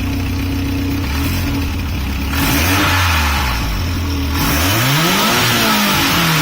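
Subaru EJ207 turbocharged flat-four running through a Cobb cat-back exhaust with an added glasspack muffler. It idles, then is revved about two seconds in, and revved again near the end, the pitch climbing and falling back.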